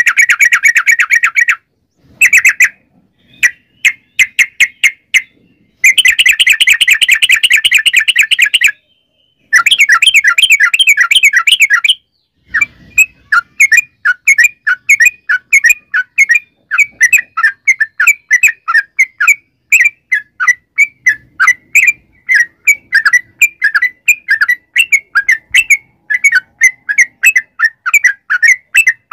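Yellow-vented bulbul (trucukan) singing its long chattering song: rapid trilled bursts lasting one to three seconds with short breaks between them, then, about halfway through, a steady string of separate loud chirps at about three to four a second.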